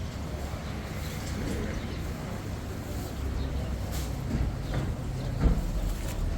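Low, steady rumble of a running vehicle engine, growing a little stronger in the second half, with one sharp knock about five and a half seconds in.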